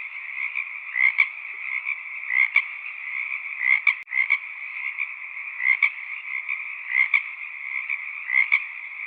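Chorus of frogs calling: a steady, dense chorus with a louder call standing out about every second and a half, and a brief drop-out about four seconds in.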